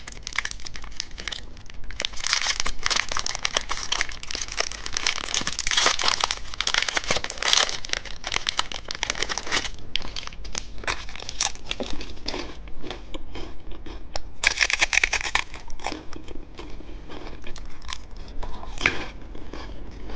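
Candy wrapper crinkling and rustling in the hands as a small umbrella-shaped chocolate is unwrapped, with a louder tearing rustle about fifteen seconds in.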